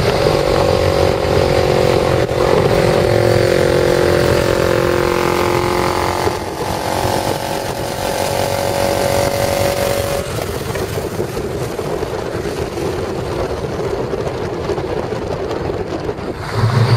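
Dirt bike engine running under way, its note dropping about six seconds in and then climbing again until about ten seconds in. After that a steady rushing noise with no clear engine note.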